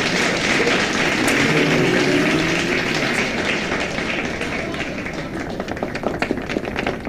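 Theatre audience applauding: dense clapping that thins out and dies away over the last few seconds.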